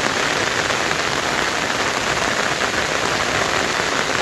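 Heavy monsoon rain falling steadily, an even hiss.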